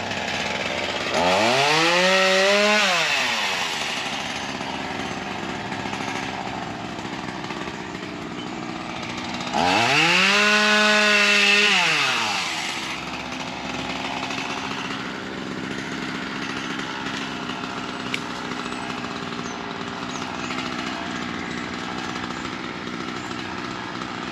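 Ryobi 16-inch 37cc two-stroke gas chainsaw running, revved up high twice for about two to three seconds each, and dropping back to idle in between.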